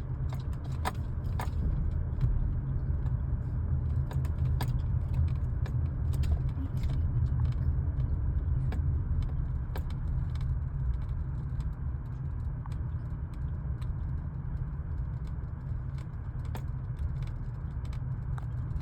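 Steady low rumble of a car driving, heard from inside the cabin, with scattered light clicks and rattles.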